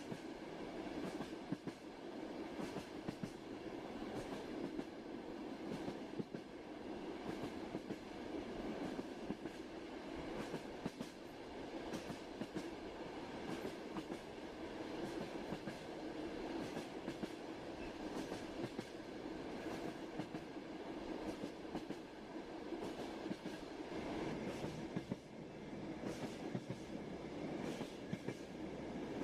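A train running on rails: a steady rumble with scattered clicks as the wheels clatter over the track.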